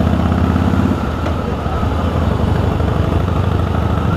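Harley-Davidson V-twin motorcycle engine running under way. The engine note changes about a second in, as the throttle eases.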